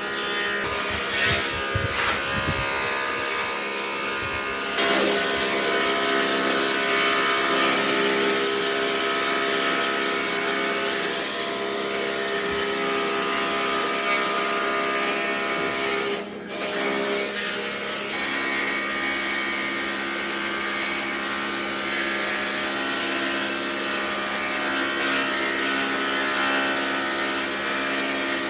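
Electric power tool running steadily on wood, its motor giving a constant whine, with a few knocks in the first few seconds and a brief dip about sixteen seconds in.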